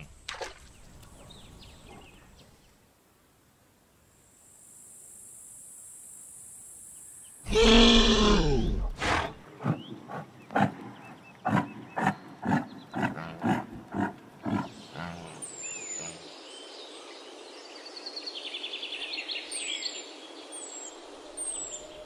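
Highland cow giving one loud, low moo about a third of the way in, followed by a run of short, irregular calls. Near the end, small birds chirp over a steady hiss.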